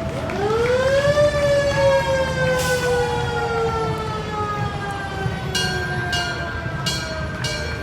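Fire truck siren winding up to a high pitch in about a second, then slowly winding down, in the manner of a mechanical siren. In the last couple of seconds a run of short, sharp blasts comes about two a second over the falling wail.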